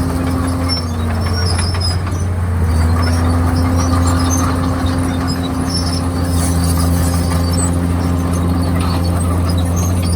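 Komatsu D51PX bulldozer's diesel engine running steadily and loud, its pitch sagging about a second in and recovering a couple of seconds later as the engine takes and sheds load.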